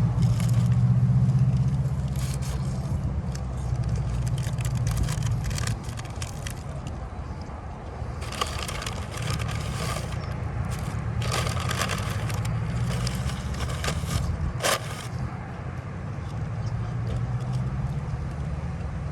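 A motor vehicle engine running nearby with a steady low hum, with a food wrapper crinkling and crackling about halfway through.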